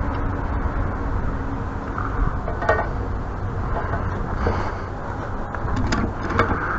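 Steady low mechanical hum, like an engine or motor running, with a few light clicks of hand tools on metal fittings around the middle and near the end.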